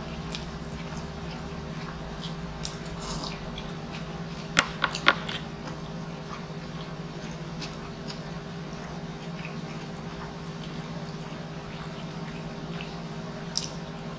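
Close-up chewing and eating mouth sounds with small scattered ticks, and two sharp clicks about four and a half and five seconds in. Under it all runs the steady hum of an air conditioner.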